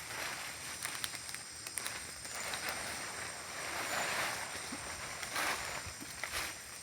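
Water sloshing and splashing in several swells a second or two apart.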